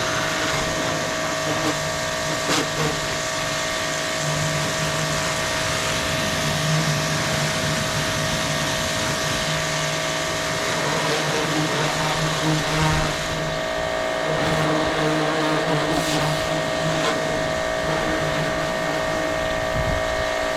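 Pressure washer running steadily while washing down a tractor: a constant motor hum with a steady tone over the hiss of the spray.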